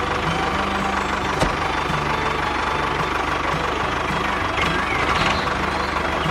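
A vehicle engine idling steadily with a knocking rumble, and a single sharp click about a second and a half in.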